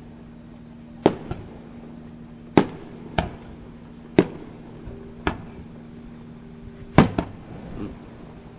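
Aerial fireworks shells bursting in the sky, about eight sharp bangs at uneven intervals, each trailing off in a short echo, with the loudest about a second in and again near the end.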